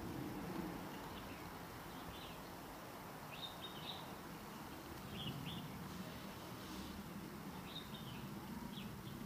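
Birds chirping: scattered short, high chirps, several every few seconds, over a steady low background noise.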